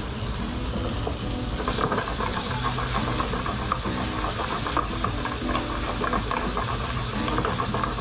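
Diced chicken thigh and sliced garlic sizzling in hot olive oil in a frying pan. From about two seconds in, a wooden spatula stirs and scrapes the pieces, adding a patter of small clicks over the steady sizzle.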